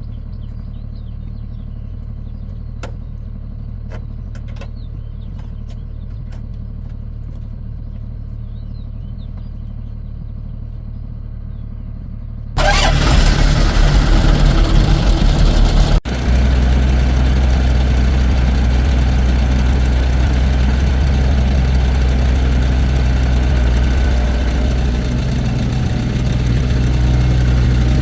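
A large engine hums steadily and low in the background, with faint bird chirps and a few clicks. About halfway through, a much louder engine cuts in suddenly with a rapid low pulsing, drops out for an instant a few seconds later, then runs on steadily.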